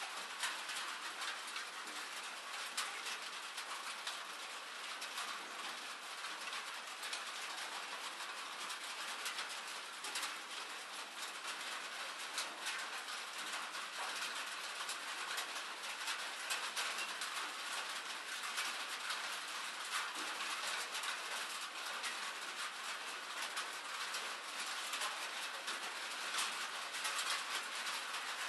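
Steady rain falling: a dense, even hiss of countless small drop ticks that does not let up.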